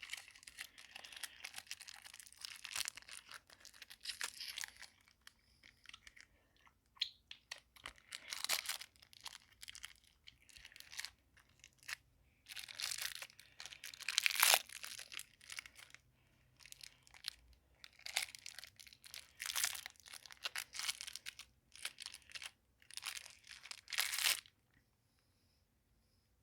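Close-miked crackling and crunching noises from a pacifier-shaped lollipop, in irregular bursts with short pauses between them.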